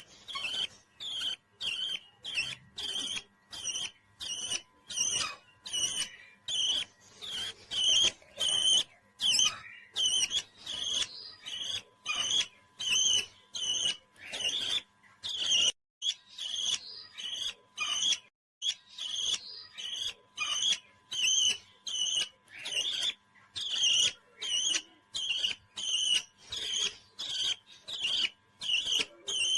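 Parrot calling in short, repeated chirps, about two a second, keeping up a steady rhythm.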